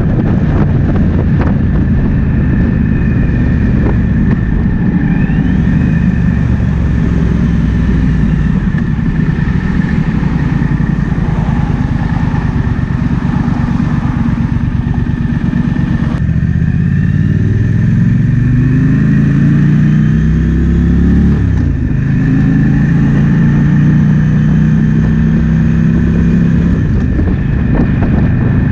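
Triumph Speed Twin 1200's parallel-twin engine running under way, with wind rushing over the microphone. A little past halfway the engine pitch climbs as it accelerates, then drops sharply and settles into a steady run.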